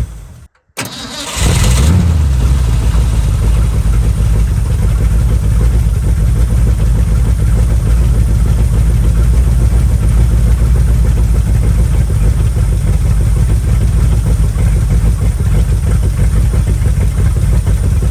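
Old Ford F100 truck engine catching about a second and a half in, then running steadily. It runs now that the firing order has been reset for the distributor rotor's counterclockwise turn, where it had been backfiring before.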